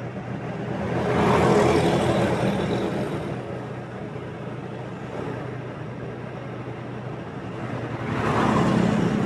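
A motorbike engine running steadily while riding, with road and wind noise. Other traffic passes close by twice: about a second in and again near the end, each swelling and fading away.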